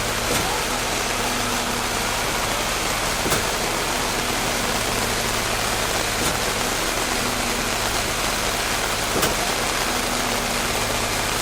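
Steady rain with a motor running under it, a constant hum. A faint click recurs about every three seconds.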